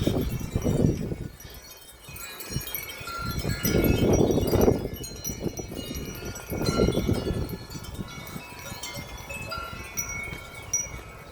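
Wind chimes ringing continuously, many overlapping metallic tones. Strong wind gusts rise and fall over them in three surges: near the start, about four seconds in, and about seven seconds in.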